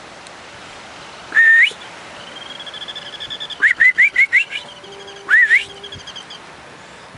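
Birds calling. Loud, clear, rising whistled notes come about a second in, then a quick run of five short upslurred notes, then one more. A fainter steady trill sounds between them.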